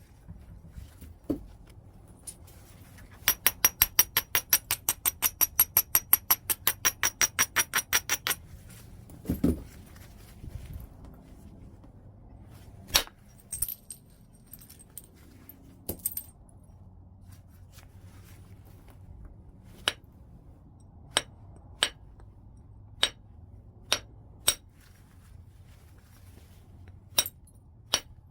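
Stone being knapped from a large piece of white chert. First comes a quick run of light ringing taps, about five a second for some five seconds, then a single dull thump. After that come single sharp clicking strikes every second or two.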